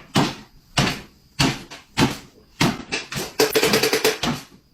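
A series of knocks or bangs, roughly one every half second to second, each dying away quickly.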